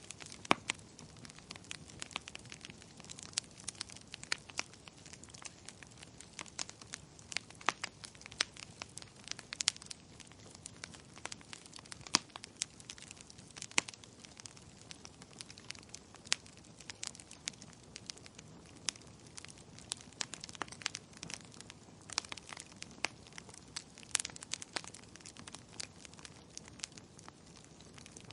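Wood fire crackling, with irregular sharp pops and snaps over a soft, steady hiss of burning.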